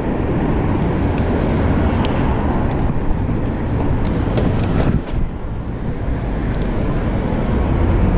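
City street traffic noise with a heavy low rumble of wind buffeting the microphone, and a few light clicks about four to five seconds in.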